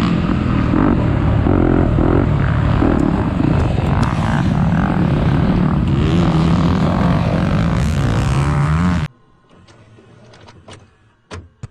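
Loud engine noise with a wavering pitch that climbs near the end, cutting off abruptly about nine seconds in.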